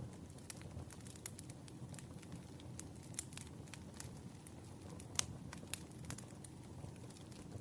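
Campfire crackling: irregular sharp pops and snaps over a steady low rumble of the burning wood, with one louder pop about five seconds in.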